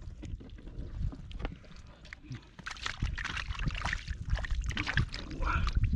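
Water splashing and sloshing, busiest from about halfway through, over a low rumble.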